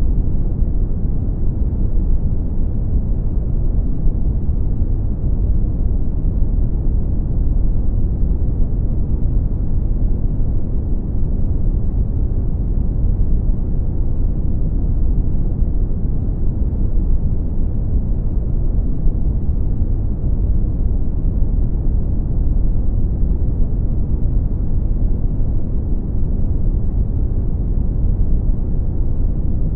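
Brown noise: steady, deep rumbling hiss, strongest in the bass and falling off toward the treble, with no changes.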